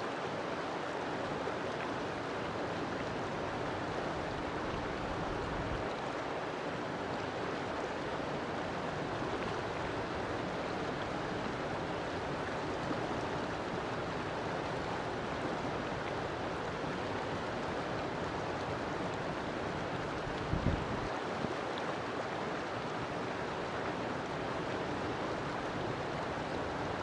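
River water flowing in a steady rush. A brief low thump comes about three quarters of the way through.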